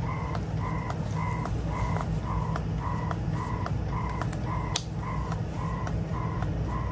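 Momme Hush wearable breast pump running its suction cycle: a motor hum with a short tone and click repeating about twice a second. There is one sharp click about five seconds in.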